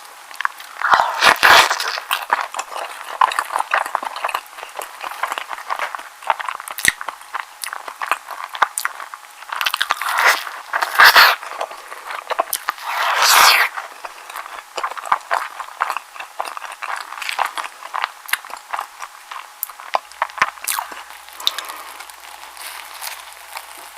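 Close-miked chewing and biting of an egg sandwich: a steady run of small wet clicks and mouth sounds, with a few louder bites about a second and a half in, around ten to eleven seconds, and near thirteen and a half seconds.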